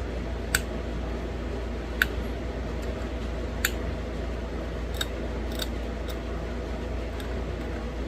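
Sharp clicks of small flakes snapping off a thin green Novaculite bird point as it is knapped, about seven at irregular intervals of half a second to a second and a half, over a steady low hum.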